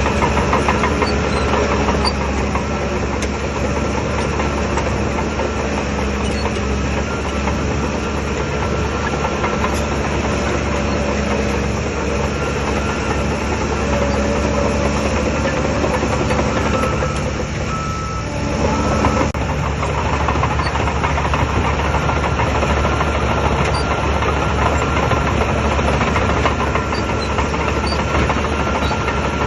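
Bulldozer's diesel engine running steadily, with a brief drop in level and change of note about two-thirds of the way in.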